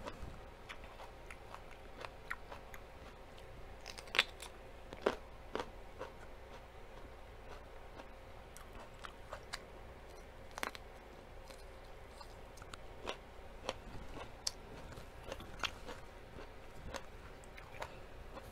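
Close-up mouth sounds of someone chewing and biting crisp food: scattered crunches and wet clicks, including a bite into a raw mini sweet pepper near the middle. The loudest crunches come about four and five seconds in and again about ten seconds in.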